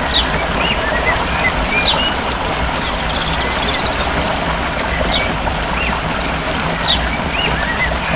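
Short bird chirps and whistles repeating in a regular pattern over a steady rushing noise like running water.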